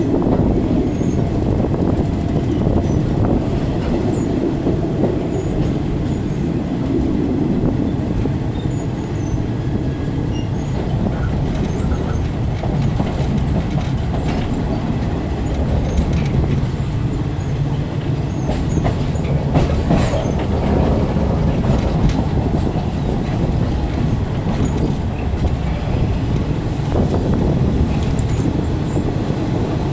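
A Thai passenger train running along the line, heard from inside the carriage: a steady rumble of the wheels and the car, with scattered clicks and knocks from the track.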